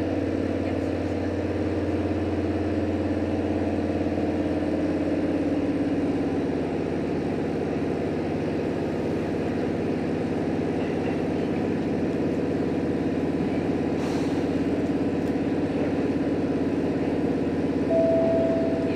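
Inside the passenger cabin of a JR Hokkaido H100 diesel-electric railcar, the diesel engine is running steadily over a low hum. A short steady higher tone comes in about a second before the end.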